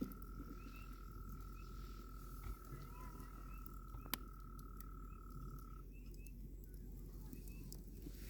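A frog calling with one long, steady trill that stops about six seconds in, with faint short chirps above it. A few sharp pops from the wood campfire, the loudest about four seconds in.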